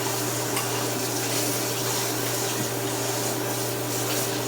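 Steady sizzling hiss of food frying in hot oil, over a steady low hum.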